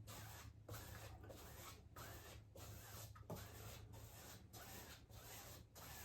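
Faint brush strokes scrubbing paint into a canvas, back and forth at a stroke roughly every half second, over a low steady hum.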